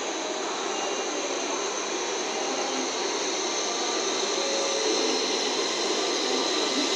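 N700S Shinkansen and KiHa 47 diesel railcar pulling into the station at the same time: a steady rushing hiss with a high whine, growing slightly louder about five seconds in.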